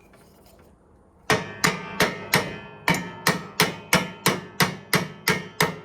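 An axe used as a hammer, tapping a stuck pin on a mower deck: about a dozen sharp, ringing metal-on-metal strikes, roughly three a second, starting a little over a second in. The pin does not budge.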